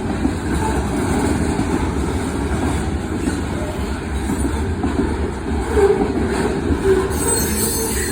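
CSX manifest freight train's cars rolling past on the rails: a steady, continuous rumble of steel wheels on track.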